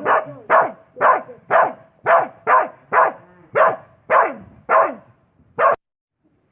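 A dog barking in a quick, steady series of about eleven barks, roughly two a second, which stops abruptly near the end.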